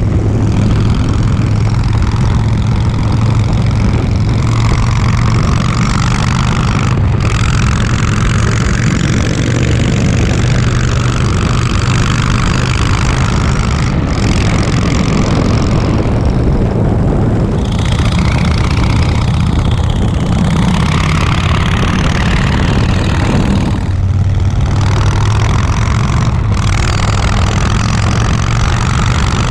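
Harley-Davidson Softail Breakout's V-twin engine rumbling steadily through a Vance & Hines exhaust with a Screamin' Eagle air filter.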